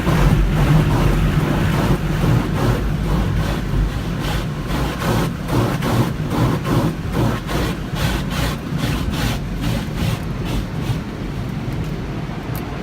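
Automatic car wash equipment running: a steady low rumble with a fast, irregular run of slaps and sprays through the middle that thins out near the end.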